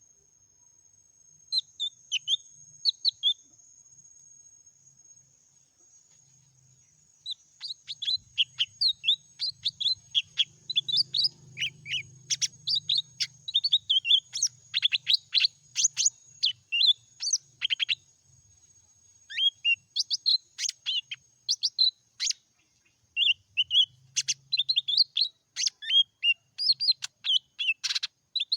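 Leafbird singing: rapid strings of short, sharp, high whistled and chattering notes, a few at first and then a fast, almost unbroken run with brief pauses.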